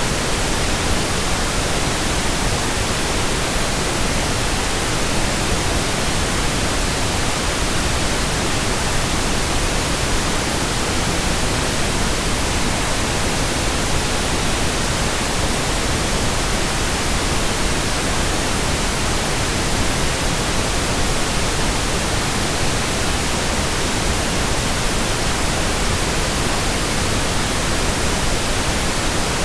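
Steady synthetic white noise: an even, unchanging hiss across all pitches, played continuously as a sleep aid.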